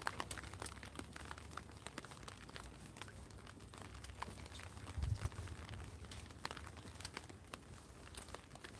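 Rain drumming on a clear plastic umbrella overhead, heard close as a dense stream of small irregular taps, with a single dull low thump about five seconds in.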